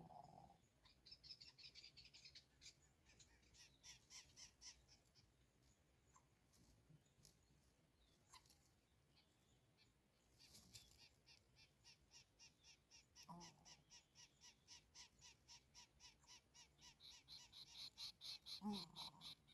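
Faint bird calls: rapid trains of high chirps, about four a second, growing louder near the end, with three short low calls at the start, about two-thirds of the way through and near the end.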